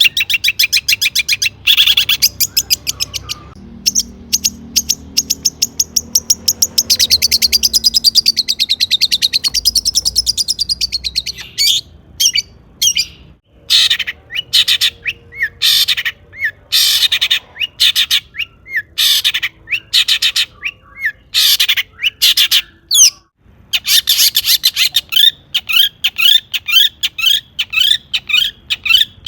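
Long-tailed shrike (cendet) singing loudly: rapid strings of short chattering notes and fast trills, switching between varied phrases in quick succession, with a few brief breaks.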